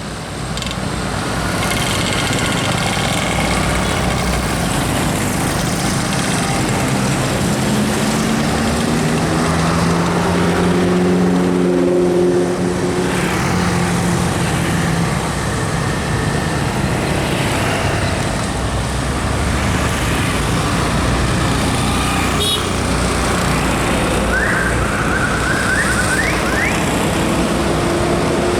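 Heavy road vehicle's diesel engine running under load amid road traffic, its pitch climbing for a few seconds in the middle before settling. Several short rising squeaks come near the end.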